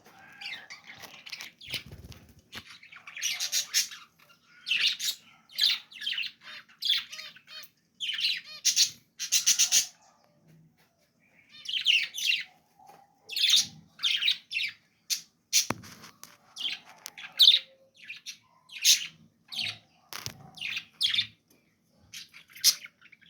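Pet budgerigars chirping and squawking in quick bursts, about one call a second with short pauses between them.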